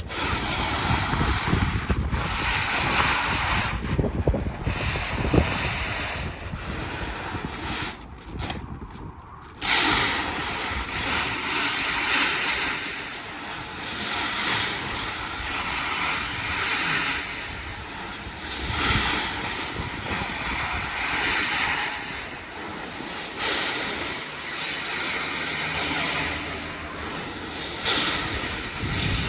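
Plastic stretch wrap being pulled off the roll around a pallet, a continuous crackling hiss that drops out briefly about eight seconds in and then resumes.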